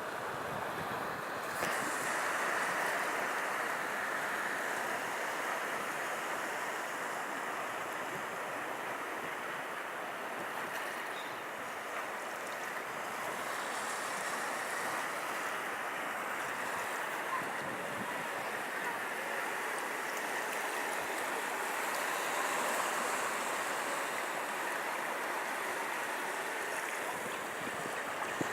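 Baltic Sea surf washing onto the beach: a steady rushing that swells and eases over several seconds.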